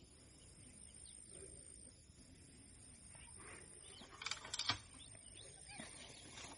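Faint outdoor ambience with a short, rapid burst of bird chirping a little after four seconds in.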